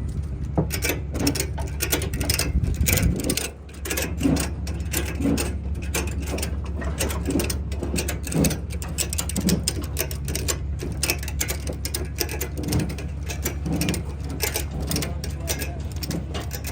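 Steady low vehicle rumble with a rapid, irregular clicking rattle over it, dipping briefly about three and a half seconds in.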